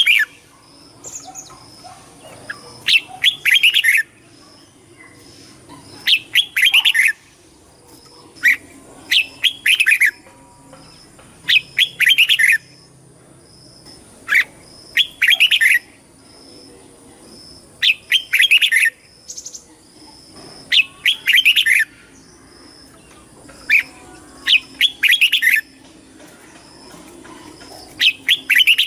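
Red-whiskered bulbul singing: short, loud, chirpy whistled phrases repeated every two to three seconds.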